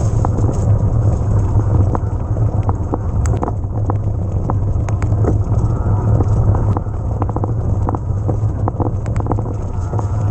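Riding noise from an electric mountain bike on a rain-soaked trail: a steady, loud low rumble of wind buffeting and tyres on the camera microphone, scattered with many short sharp ticks and clicks.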